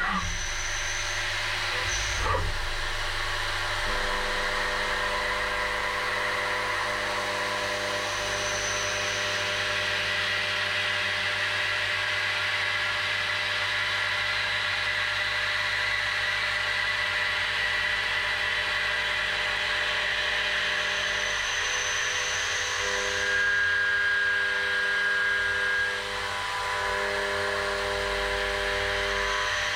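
HAAS Super Mini Mill cutting aluminium: the spindle runs with several steady tones over a hiss. The tones change about two-thirds of the way through, and the sound grows louder for a few seconds, then drops back.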